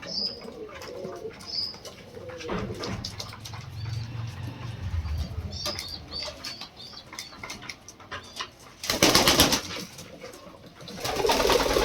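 Lahore pigeons flapping their wings in two loud bursts, one about nine seconds in and one near the end, with soft pigeon cooing before them.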